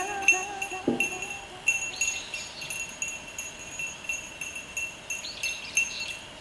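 A small metal bell jingling in a steady rhythm, about three strikes a second.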